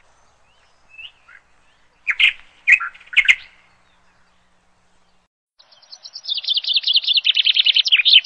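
Small birds chirping: a few short, high chirps, then a rapid trill of many notes that falls in pitch over the last two or three seconds.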